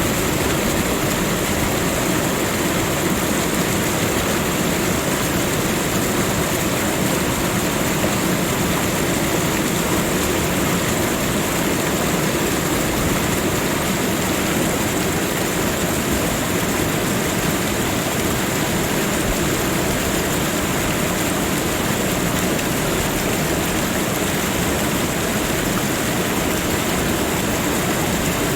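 Waterfall: a steady roar of falling water.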